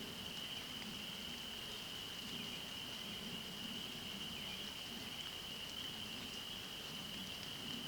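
A dense chorus of frogs calling together, merged into one steady high-pitched ring, over a faint low murmur.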